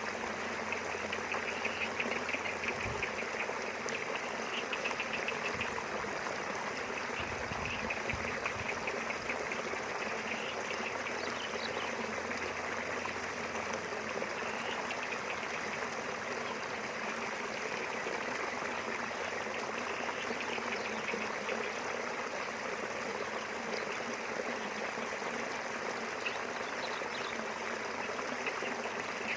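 Small river flowing steadily, a continuous rush of running water. A high, fast-pulsing trill comes and goes over it.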